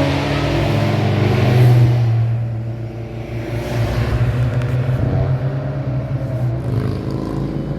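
Car engine passing by under load, loudest in the first two seconds, then fading a little into a steady engine drone.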